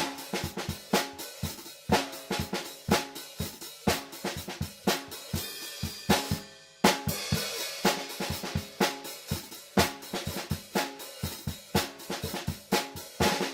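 Acoustic drum kit played in a free, improvised groove: bass drum, snare and hi-hat hits in quick, irregular patterns, with a brief break about six and a half seconds in followed by a ringing cymbal wash. Picked up unprocessed by an overhead microphone pair about two metres away.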